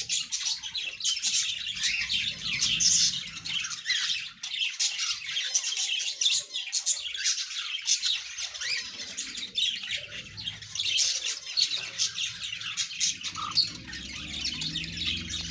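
A crowd of caged pet birds chirping and squawking all at once, many short, overlapping calls with no pause.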